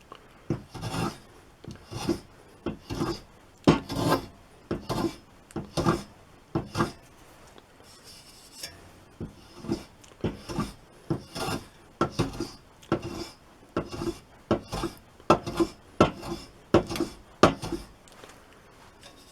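Hand jack plane pushed along hard walnut in short, repeated scraping strokes, about one or two a second, with a brief pause partway through. The blade is dull and the walnut very hard, so the plane scrapes rather than cutting clean shavings.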